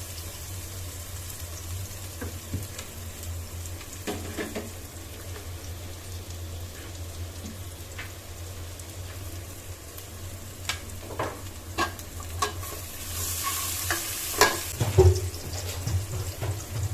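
Food frying in hot oil in a pan, with a steady sizzle. A spatula scrapes and knocks against the pan now and then, more often and louder near the end.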